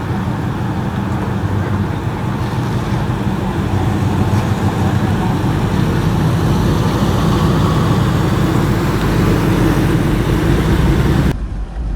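Car engine running close by, a steady rumble that grows a little louder and then cuts off abruptly near the end.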